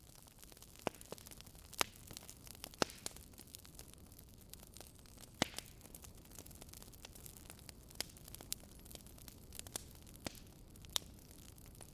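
Wood fire burning in a fireplace, crackling: irregular sharp pops and snaps over a soft steady hiss, the loudest pops about two, three and five and a half seconds in.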